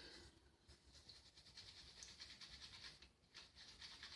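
Faint, quick, rhythmic swishing of a shaving brush working thick shaving cream into a lather in a lather bowl, with a short break a little after three seconds in.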